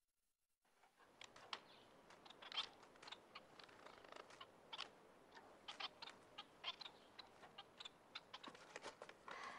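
Small caged bird chirping faintly in short, scattered calls, starting about a second in.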